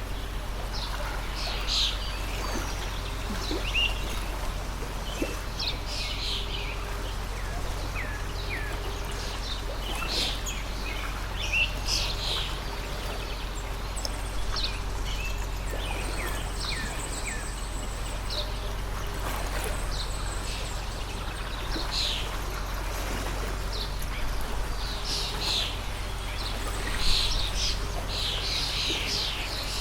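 Small songbirds chirping and trilling, short calls every second or so, over the steady rush of a water stream, with a constant low hum underneath.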